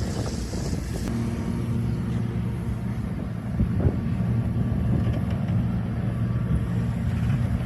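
Excavator's diesel engine running steadily, with a brief louder knock about four seconds in.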